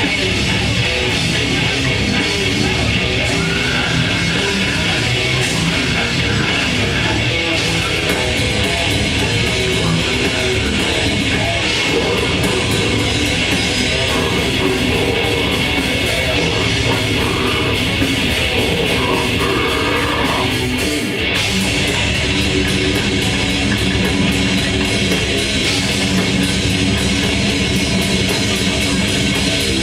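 Grindcore band playing live at full volume: distorted electric guitars, bass and drums, with a split-second break about twenty seconds in.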